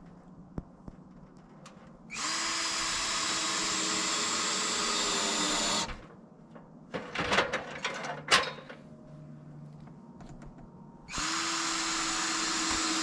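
A power drill runs at a steady speed in two bursts of about four seconds each. Between them come a few sharp knocks, like a tool or wood being handled.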